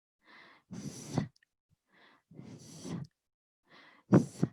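A woman's breathy puffs of air, about four in a row, each with a fainter intake before it; the last has a little voice in it.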